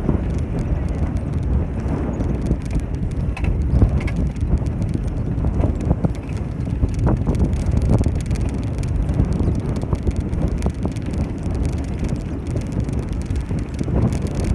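A bicycle rolling along the road, its tyres rumbling and rattling, with wind buffeting the microphone and scattered short clicks and knocks throughout.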